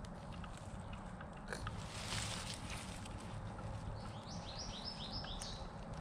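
A songbird sings one short phrase of about five quick notes, each falling in pitch, about four seconds in. Under it runs a steady low rumble, with a few soft clicks and rustles.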